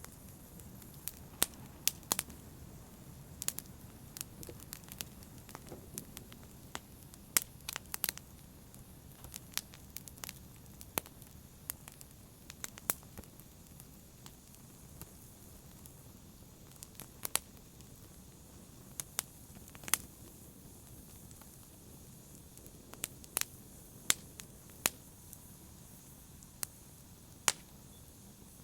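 Wood fire crackling in a fireplace: a soft steady rumble of flames with sharp pops and snaps at irregular moments, some in quick pairs.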